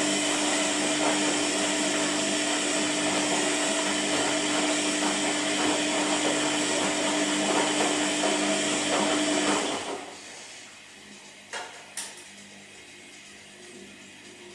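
Washing machine running, its motor giving a steady hum over a rushing noise, which stops about ten seconds in. Two short clicks follow in the quieter pause.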